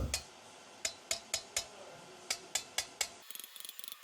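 A hammer tapping the valve stem ends of a reassembled VK50VE cylinder head, eight sharp taps in two quick runs of four, to seat the freshly fitted valve keepers.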